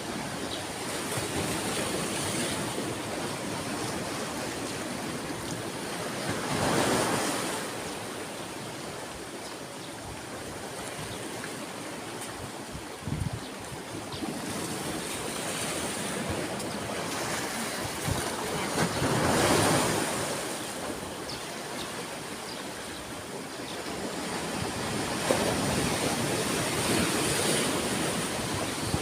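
Ocean waves washing onto a shore, the surf swelling and falling back three times, about every ten to twelve seconds. There is a brief low thump near the middle.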